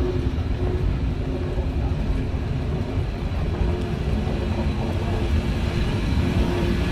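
A train rolling along the track: a steady low rumble with a faint steady hum over it.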